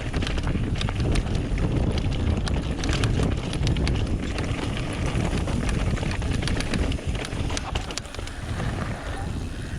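Trek Remedy 8 mountain bike running down a dirt trail: tyre rumble over the ground with wind on the microphone and frequent sharp clicks and rattles from grit and the bike.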